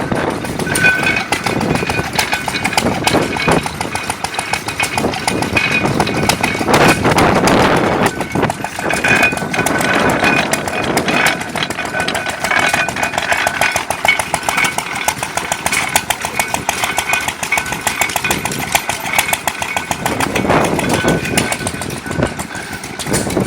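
Antique hit-and-miss gas engines running with a rapid, steady chuffing beat.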